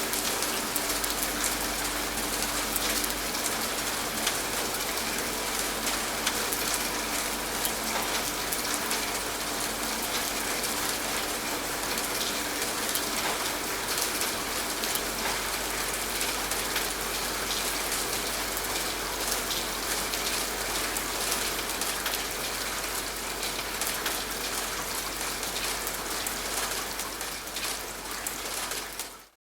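Steady rain falling, a dense, even patter of drops, fading out to silence just before the end.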